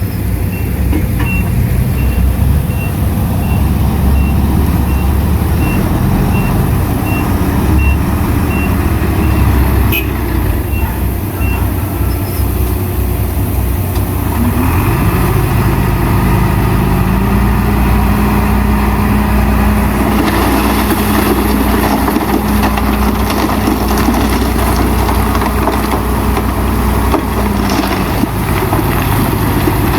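Diesel engines of heavy earthmoving machinery running, with a reversing alarm beeping evenly, a bit over once a second, for the first ten seconds or so. Halfway through, an engine note rises and holds a steady higher pitch for about ten seconds before dropping back near the end.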